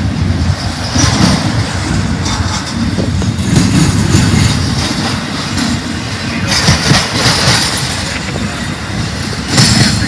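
Freight train rolling past: a steady, loud rumble of railcars with wheels clattering and squealing on the rails.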